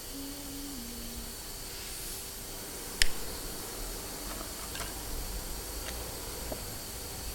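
Steady background hiss and hum, with one sharp click about three seconds in and a few faint ticks after it.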